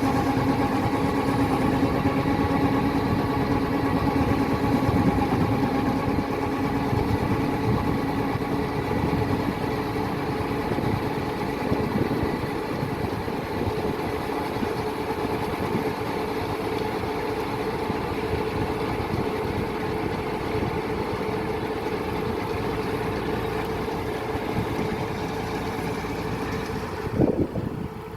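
Kubota DC-105X combine harvester's diesel engine running steadily, with a steady mechanical hum that eases slightly partway through. Near the end there is a short knock, and then it is quieter.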